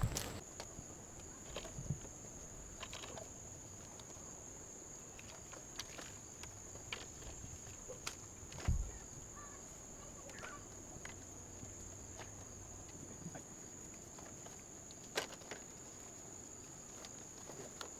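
A steady, high insect buzz of crickets, with scattered light clicks and knocks and one dull thump about nine seconds in.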